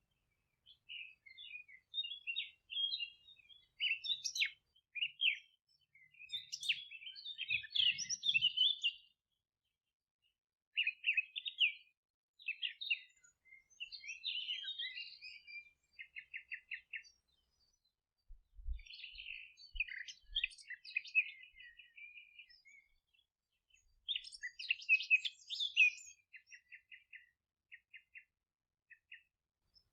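Songbirds singing in short chirping phrases with pauses between them. Several phrases end in a fast run of repeated notes, a trill.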